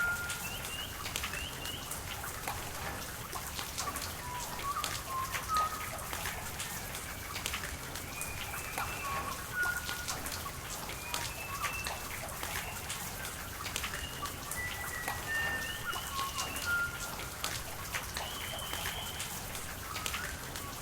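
Steady rain with drops ticking sharply on surfaces over a constant hiss of rain and running water. Short, high bird chirps come again and again throughout.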